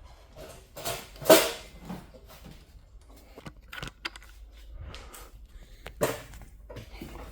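Hand work fitting an ignition coil onto a Ford 5.4 Triton's cylinder head: a string of clicks and knocks. The loudest comes about a second in and another near six seconds.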